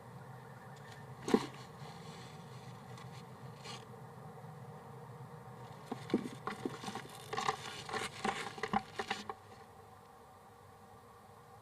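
Scratching and scraping inside a wooden nest box as the nesting bird shifts about, with one sharp knock about a second in and a run of quick scratchy clicks from about the middle to near the end.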